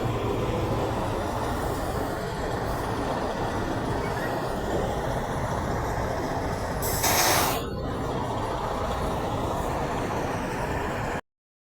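Steady rumble of passing semi-truck traffic, engines and tyres. About seven seconds in, a short, loud hiss of air brakes. The sound cuts out completely just before the end.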